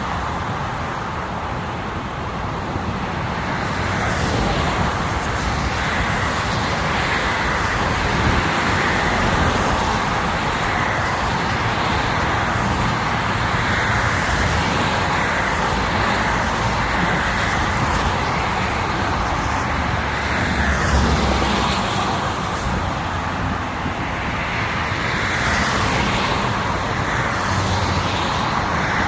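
Steady road noise of a motor vehicle driving on a highway, its engine and tyres blending into an even, unbroken sound.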